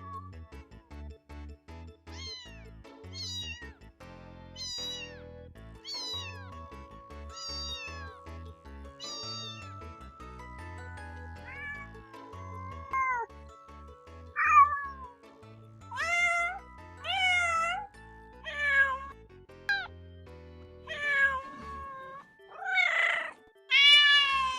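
Domestic cats meowing over soft background music. First comes a run of short, high-pitched, falling mews about once a second. From about halfway the meows are louder and longer, and the loudest come near the end.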